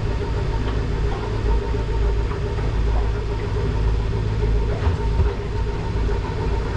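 Motorboat engine running steadily under way, a constant low drone.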